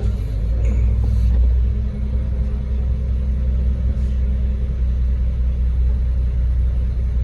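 Ready-mix concrete truck's diesel engine running steadily with a low rumble.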